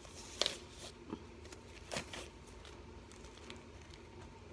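A few light, sharp taps and clicks of hands working with chillies at a kitchen bench, the first the loudest, over a faint room hum.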